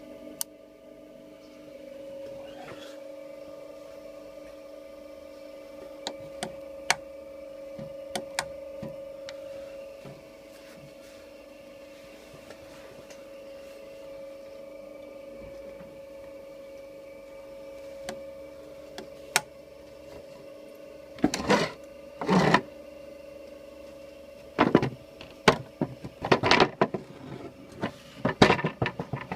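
Claes 213 saddler's sewing machine with its electric motor humming steadily and occasional sharp clicks. About two-thirds of the way in come several short loud bursts of the machine running, like brief runs of stitching.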